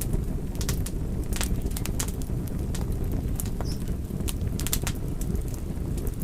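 Fire crackling: a steady low rumble of burning with frequent sharp pops and snaps at irregular moments.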